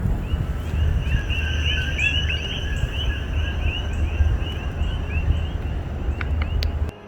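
A bird chirping over and over in quick short notes, about three a second, over a steady low rumble; both cut off abruptly near the end.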